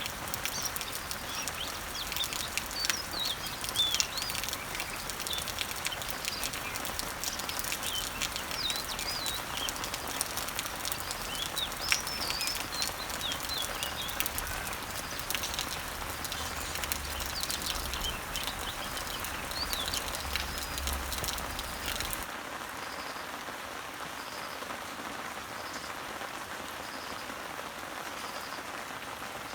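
Rain pattering steadily on leaves, with many small drop ticks, while birds chirp. About two-thirds of the way through the sound changes abruptly to a softer, smoother rain hiss with a faint high chirp repeating at a regular beat.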